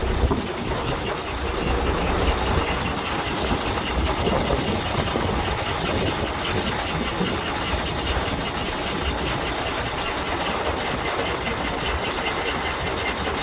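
2006 Volvo truck's diesel engine idling with a miss and a fast, steady tapping from the engine. The fault code points to the number 6 injector.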